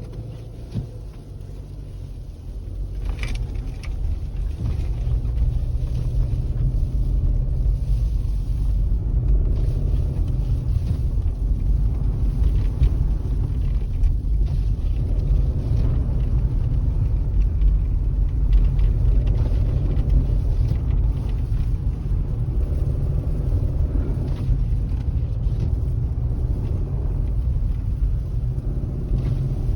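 A car's engine and road rumble heard from inside a moving car: a steady deep rumble with a faint engine note that rises and falls, growing louder about four seconds in.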